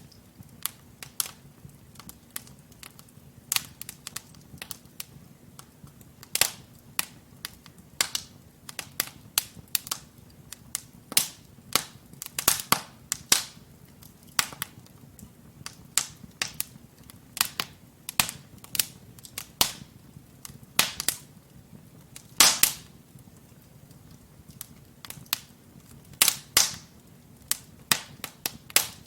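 Burning logs in a wood fireplace crackling and popping: irregular sharp snaps, several a second, over a faint low hiss of the flames, with a few louder pops about halfway through and again about three quarters of the way in.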